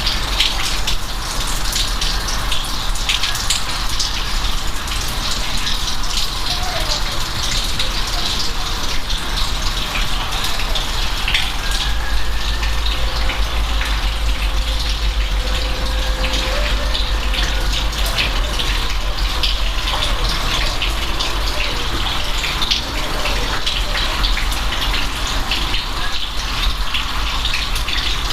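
Steady rain falling, with a dense patter of drops over a low rumble.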